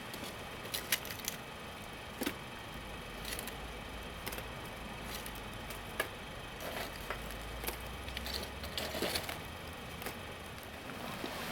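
Scattered sharp clicks and snaps, one every second or two, over a steady hiss.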